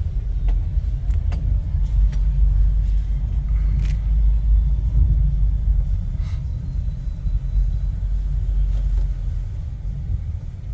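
Strong wind buffeting the microphone: a loud, unsteady low rumble that swells and dips, with a few faint clicks over it.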